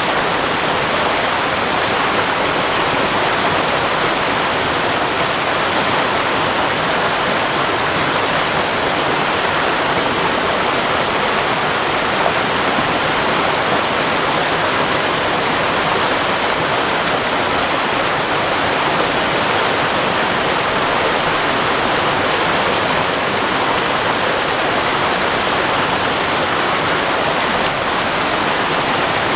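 Waterfall splashing steadily onto rock, a constant even rush of falling water.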